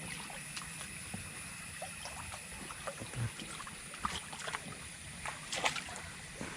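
Water trickling and dribbling in a blocked well-overflow drain, with scattered small splashes and light knocks.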